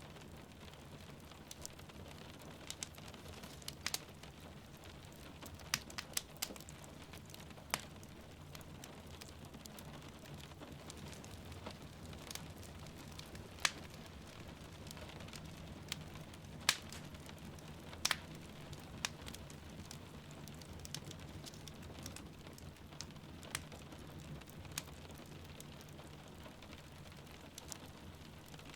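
Wood fire crackling in a fireplace, with irregular sharp pops over a steady low rumble and the soft hiss of falling rain.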